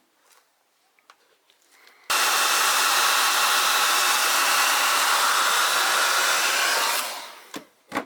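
A hot-air blower switches on abruptly about two seconds in, runs steadily for about five seconds, then is switched off and winds down. Two short knocks follow near the end.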